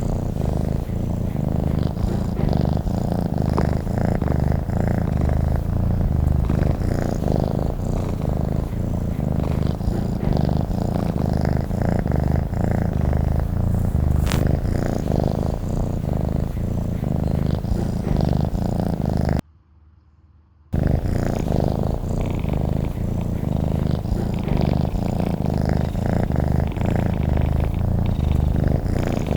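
Domestic cat purring steadily, a loud, close rhythmic low rumble. It drops out for about a second roughly two-thirds of the way through, then picks up again.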